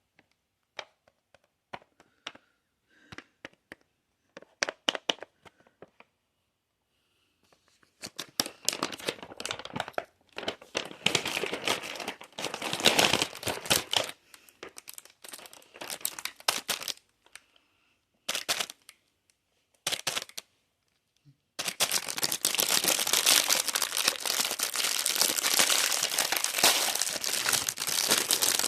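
Cookie packaging being handled and crinkled: a few scattered light clicks and taps at first, then crinkling in bursts from about eight seconds in, turning continuous and loud for the last several seconds.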